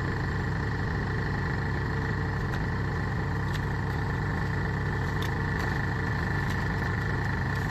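Diesel engine of a Kubota DC70 Plus rice combine harvester running steadily, with a steady high-pitched whine above the engine note.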